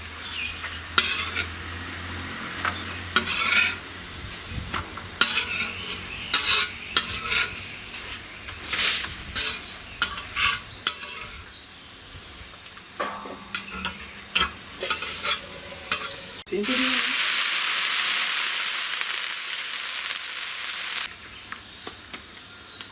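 A metal ladle scrapes and clinks against a cooking pot as a chicken curry is stirred. About sixteen seconds in, a loud sizzling hiss starts suddenly, as of something hitting hot oil, and lasts about four seconds.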